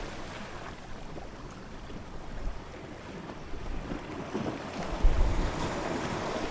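Ocean waves washing on a shore, with low wind buffeting the microphone. The surf is quieter at first and builds again in the second half.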